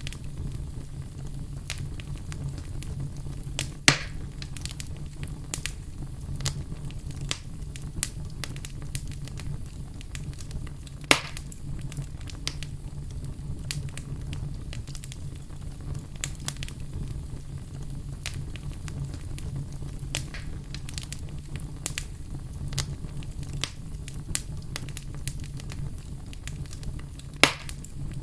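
Wood fire crackling: a steady low rumble of flames with irregular sharp pops and snaps, three louder pops about 4, 11 and 27 seconds in.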